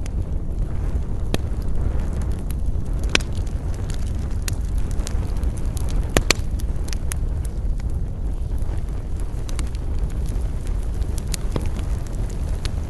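Wood campfire burning: a steady low rush with irregular sharp crackles and pops, the loudest about three and six seconds in.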